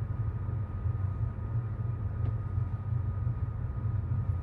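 Passenger train heard from inside the carriage: a steady low rumble with a faint, steady high hum above it.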